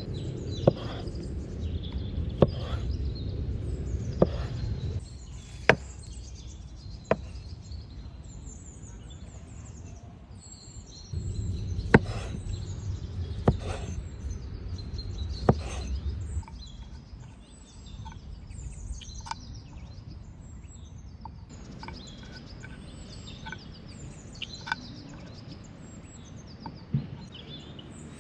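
Small birds chirping and twittering. In two stretches a sharp knock sounds every second or two over a low rumbling noise.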